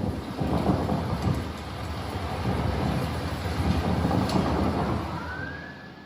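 Loud, dense rumbling noise that fades near the end, as an emergency vehicle siren starts up, its pitch rising and then slowly falling.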